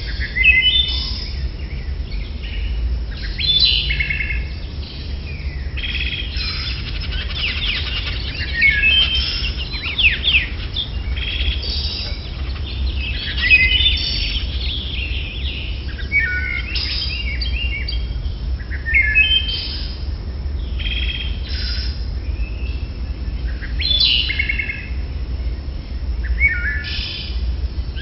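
Birds chirping: many short, repeated chirps and pitch-sliding calls, thickest in the middle, over a steady low rumble.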